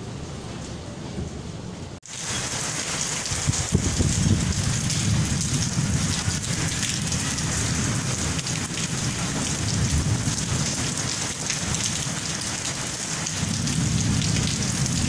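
Heavy rain pouring down, thick with close drop hits, over a low rumble that grows stronger near the end. The sound is quieter for the first two seconds and jumps suddenly louder after that.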